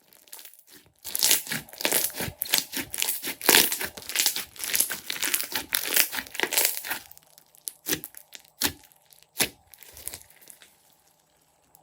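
Clear slime being squeezed and kneaded by hand, giving a fast run of crackling and popping as air pockets burst. It thins to a few separate pops near the end.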